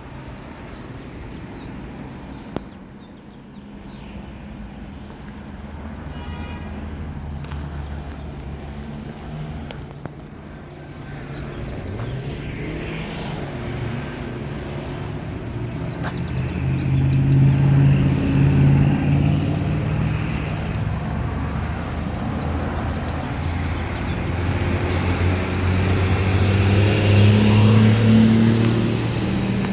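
Road traffic: car engines running as vehicles drive past, getting louder from the middle on, with the nearest passes about two thirds of the way in and near the end.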